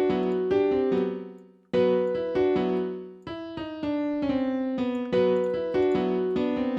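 Piano-type keys melody for a trap beat playing back from FL Studio, chords struck about twice a second. It fades out and restarts twice in the first half, like a short loop being replayed.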